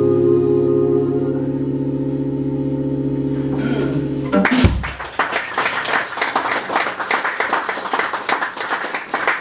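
A song's final chord is held steadily, then stops abruptly about four and a half seconds in. Audience applause and clapping follow.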